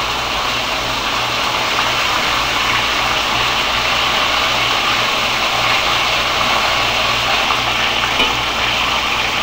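Breaded sirloin steak pieces frying in hot grease in a cast-iron skillet: a steady sizzle as the meat is moved around the pan to brown.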